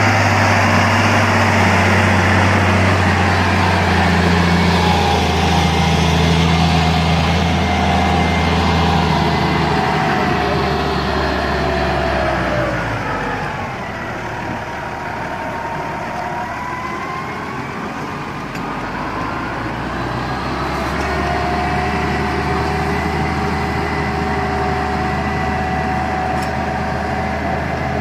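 Massey Ferguson tractor engine running steadily while levelling a motocross track. About halfway through, its pitch falls and it runs quieter for several seconds, then it picks up again.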